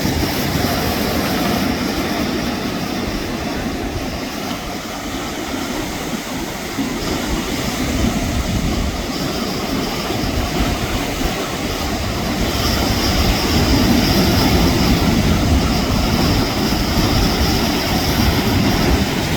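Strong mistral wind buffeting the microphone in gusts, over the rush of big waves breaking on the shore. It swells louder a little past the middle.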